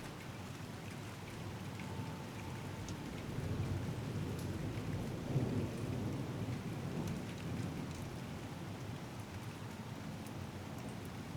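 Steady rain falling, with scattered drop ticks, and a low rumble of thunder that swells through the middle and fades again.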